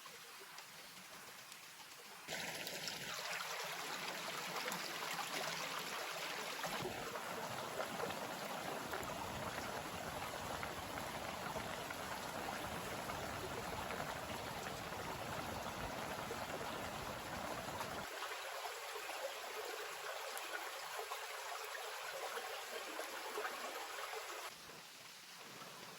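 Steady rushing water noise that starts abruptly a couple of seconds in and stops abruptly near the end, over a fainter, quieter hiss.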